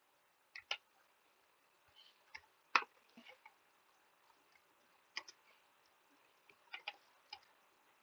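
Computer keyboard keystrokes, a dozen or so short clicks at an uneven, unhurried pace as a line of code is typed, the loudest a little under three seconds in.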